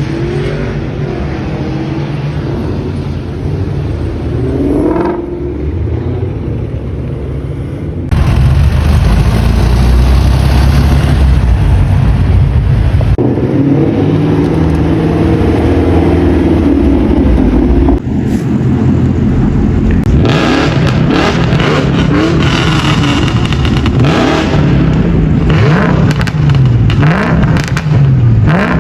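Car engines revving and accelerating loudly, with abrupt changes about a quarter, half and two-thirds of the way through as the sound jumps from one car to another.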